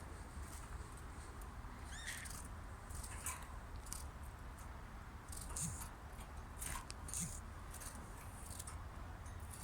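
Cage birds giving short, high, scattered chirps, one a little rising-and-falling call about two seconds in, over a steady low hum.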